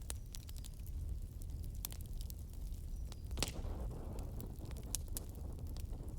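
Wood fire crackling in a fireplace: scattered sharp pops and snaps over a steady low rumble of the flames, with one louder snap about three and a half seconds in.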